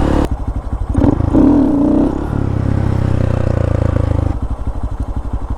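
Honda Grom's single-cylinder engine dropping to a lumpy idle, then revved with a rising-and-falling blip about a second in. It holds a little higher for a couple of seconds and falls back to idle near the end.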